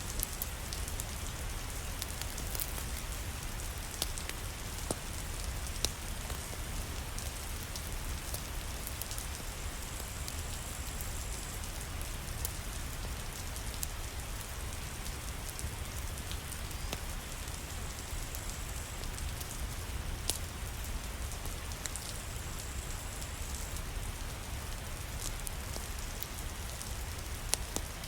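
Steady rain falling, with a low rumble underneath and scattered sharp ticks throughout.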